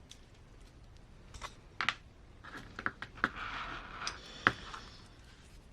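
Light clicks and taps of small RC driveshaft parts being handled, with a short rustle partway through.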